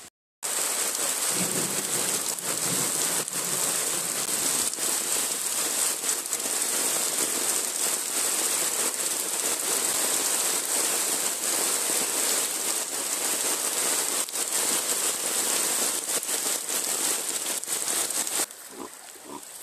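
Heavy rain pouring onto muddy floodwater: a loud, steady hiss that starts after a moment of silence and cuts off abruptly near the end.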